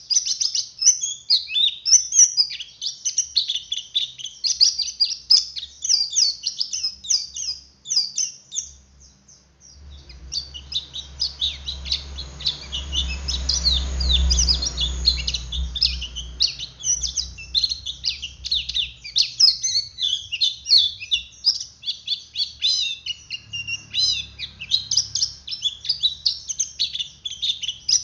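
Male white-eye (pleci) calling in a fast, continuous twittering chatter ('ngeriwik'), high-pitched and unbroken except for a pause of about a second a third of the way in.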